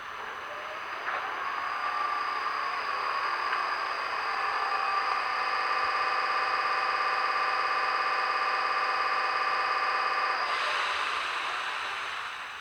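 Sound decoder of a Roco HO model of an SJ Rc4 electric locomotive playing a locomotive machinery sound through its small speaker: several steady whining tones over a hiss that build up over a second or two and hold. About ten seconds in the tones stop, and a short hiss fades out.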